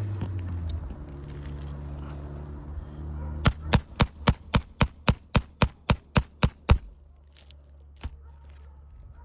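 Roofing hammer striking on a three-tab asphalt shingle roof: a quick run of about a dozen sharp blows, roughly four a second, then a single knock a little later. A low steady hum runs under the first few seconds before the blows.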